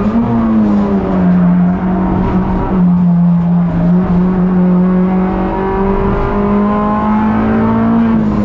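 Suzuki Swift race car's four-cylinder engine under hard acceleration, heard from inside the cockpit. Its note climbs slowly and drops sharply twice, about a third of the way in and again about three-quarters in, as it shifts up a gear.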